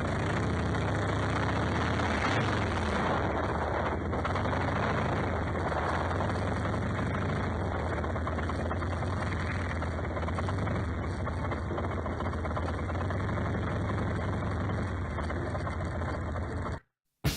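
Motorcycle engine running steadily with an even, low hum, cutting off suddenly near the end.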